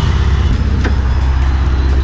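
Modified Ford Fiesta XR2i's 1.6 CVH four-cylinder engine running steadily as the car drives past.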